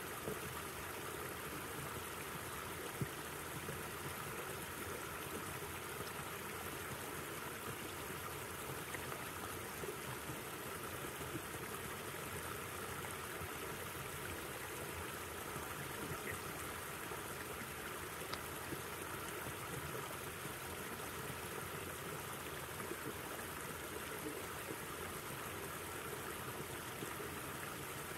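A river flowing over stones: a steady rushing and burbling of water, with a few faint splashes and ticks.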